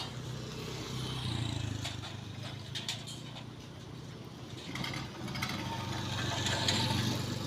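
A motor engine running steadily with a low hum, among outdoor background noise and a few faint clicks.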